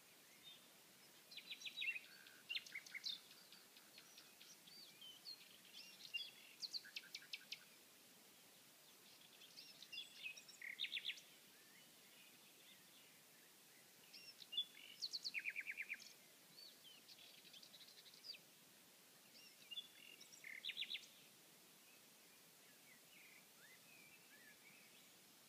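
Common nightingale singing: about five separate phrases of rapid repeated notes and whistles, with pauses of a few seconds between them.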